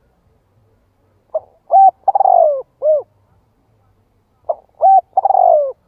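Spotted dove singing its cooing song twice, about three seconds apart: each phrase is a short note, a higher coo, a long falling coo and a short closing coo.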